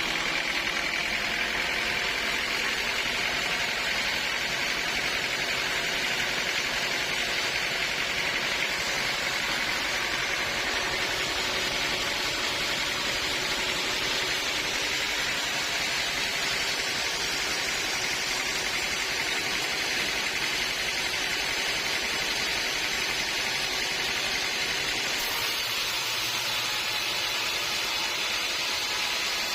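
Sawmill machinery running steadily: an engine note under an even hiss, with no pauses or changes.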